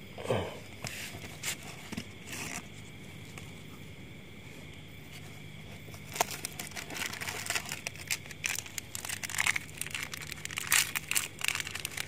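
Plastic bags and packaging crinkling and rustling as things are unpacked: a few crackles at first, then busy crinkling through the second half, over a steady low hum.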